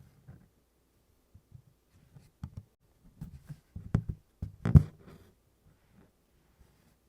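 Needle piercing stiff 24-count Congress cloth and DMC cotton floss being drawn through in tent stitch. Irregular soft taps and short scratchy pulls, the two loudest about four seconds in and just before five seconds in.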